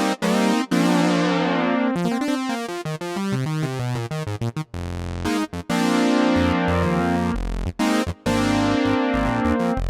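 Sequential Take 5 analog polysynth playing a preset: chords with a fast run of notes, then deep bass notes from about five seconds in, with short gaps between phrases.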